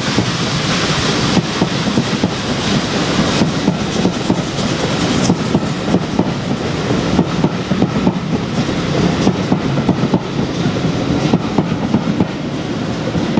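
Coaches of a steam-hauled passenger train rolling past, their wheels clattering over the rail joints in a dense stream of clicks over a steady rumble.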